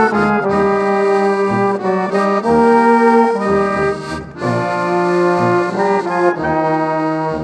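Instrumental folk music: accordion playing sustained chords and melody with brass, over bass notes about once a second.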